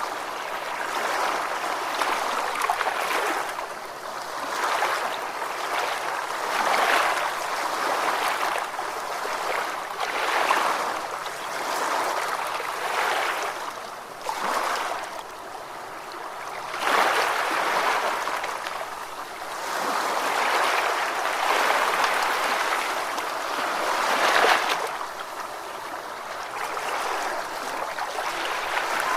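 Ocean waves washing in, a hissing wash with little deep rumble that swells and eases every two to four seconds.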